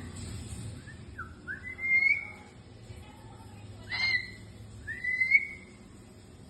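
Cockatoo whistling: a few short whistled notes, two of them longer rising whistles, with a sharper chirp in between.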